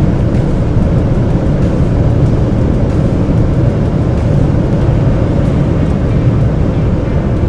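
Steady in-cabin drone of a 2018 Ford Edge's 2.0 TDCi four-cylinder diesel engine under load at about 190 km/h, mixed with wind and tyre noise.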